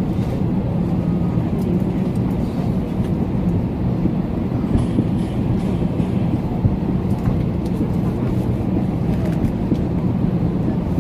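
Steady low mechanical drone of a parked airliner, with a few faint clicks and knocks over it.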